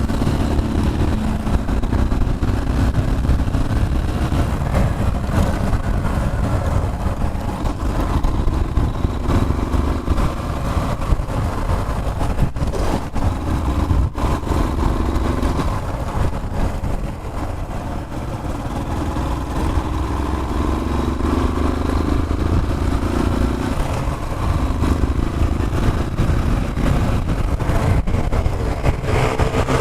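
Yamaha Fazer 150's single-cylinder engine running on the move, its pitch rising and falling as speed changes, over a heavy low rumble.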